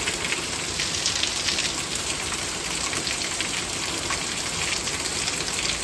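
Heavy downpour: rain pattering hard on surfaces, with a steady rush of runoff water, at an even level throughout.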